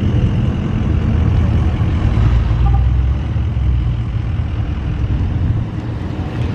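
Truck engine running with a steady, deep rumble.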